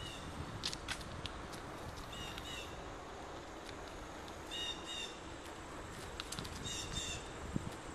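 A bird calling in short double notes about every two seconds, over a steady low rumble with a few sharp clicks.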